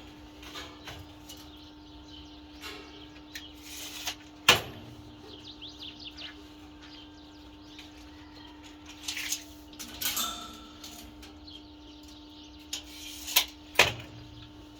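Metal workshop handling noises over a steady hum: scattered scraping and a few sharp clanks, the loudest about four and a half seconds in and two more close together near the end.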